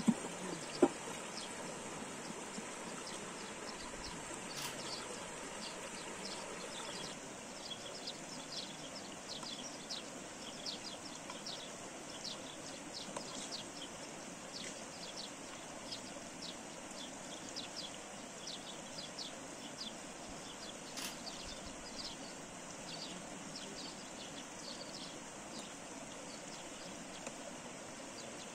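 Small birds chirping in a forest over a steady outdoor hiss, with many short high chirps in quick succession through most of the stretch. Two sharp clicks sound within the first second.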